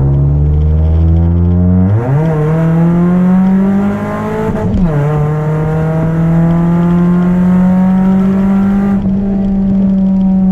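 Chevrolet Celta 1.0 four-cylinder engine, naturally aspirated with a 4-into-1 header and a two-inch straight-through exhaust with no mufflers, pulling under acceleration. The pitch jumps up about two seconds in, then climbs slowly, with a brief dip and recovery a little before halfway, which looks like a gear change.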